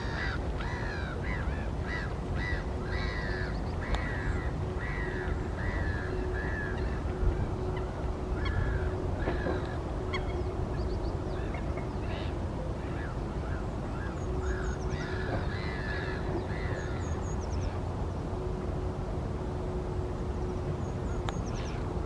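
Birds calling in bouts of rapid, harsh honking calls, two or three a second, breaking off about seven seconds in and resuming in shorter runs, over a steady low rumble and a faint steady hum.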